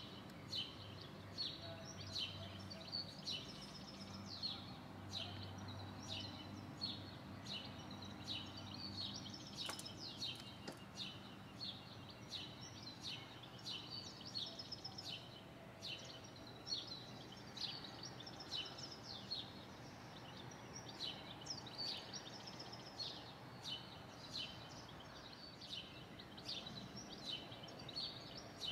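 Small birds chirping, short high calls repeated about once or twice a second, over a faint steady low hum of outdoor background noise.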